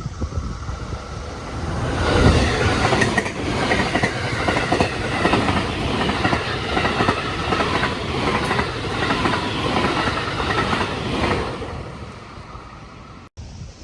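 JR Kobe Line electric train running past, its wheels clacking over the rail joints; the sound builds about two seconds in and fades near the end.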